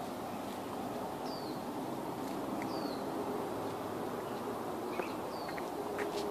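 A small bird gives three short, high, falling calls over a steady background hum of outdoor ambience, with a few faint clicks.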